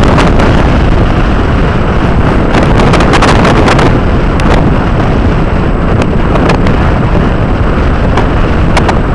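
Strong wind buffeting the microphone: loud, continuous noise with scattered crackles.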